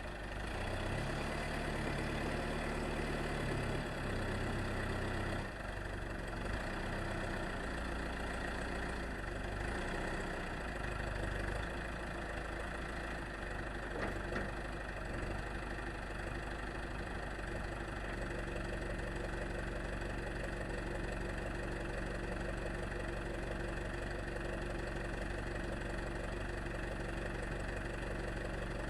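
An engine idling steadily, a little unevenly in the first few seconds.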